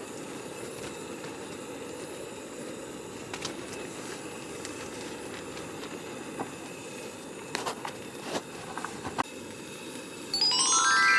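Wood campfire burning with a steady low rush and a few sharp pops in the second half. Near the end, a quick rising run of bright musical notes comes in.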